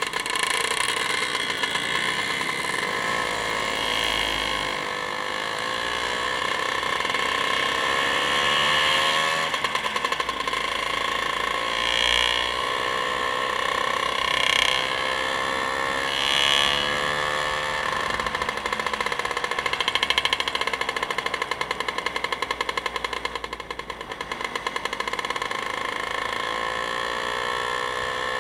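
Vehicle engine running on the move, its pitch rising and falling several times as the revs change.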